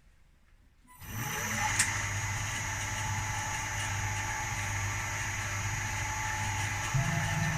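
Milling machine spindle motor starting about a second in, its pitch rising quickly as it spins up, then running steadily with a high whine.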